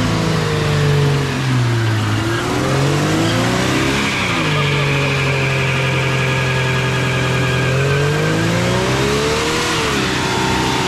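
1998 Jeep Cherokee engine revving hard in a burnout attempt, working against the automatic transmission. The revs dip about two seconds in, climb and hold high for several seconds, then sag and rise again near the end.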